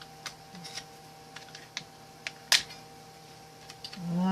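Light scattered clicks and taps of a plastic multimeter case and its circuit board being handled and pried at, with one sharper click about two and a half seconds in. A faint steady hum runs underneath.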